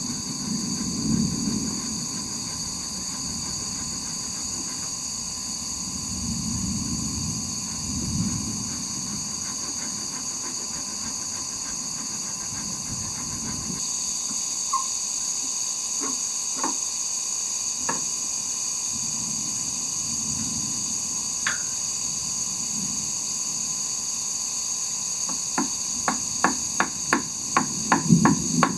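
Steady high-pitched chorus of summer insects, with a run of quick sharp knocks, about three or four a second, starting near the end.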